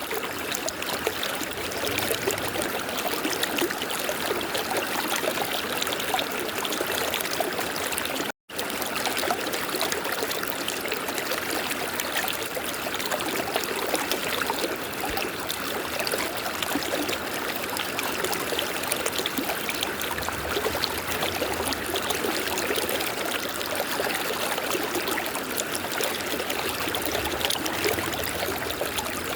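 A river flowing steadily, an even rushing hiss of water. There is a split-second dropout to silence about eight seconds in.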